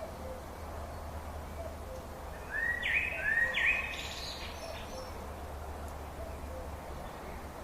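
A bird calls twice, two upswept notes in quick succession about three seconds in. Under it, a steady low hum and faint low notes repeating about once every second.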